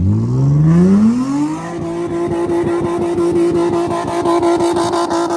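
A vehicle's engine revved hard, climbing over about a second and a half, then held steady at high revs with a rapid pulsing edge.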